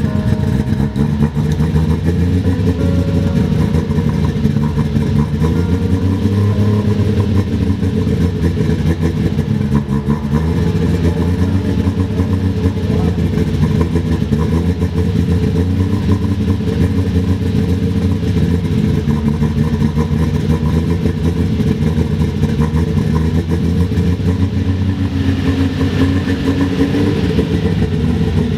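Toyota 1JZ-GTE turbocharged straight-six in a Holden VB Commodore idling steadily, its pitch drifting gently up and down.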